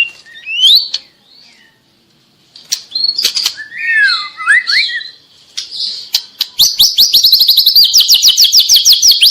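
Juvenile white-rumped shama singing: varied whistled phrases gliding up and down, a short pause, then from about six and a half seconds a fast run of repeated sweeping notes.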